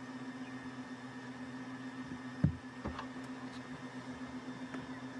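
A steady low hum with two soft knocks about two and a half and three seconds in.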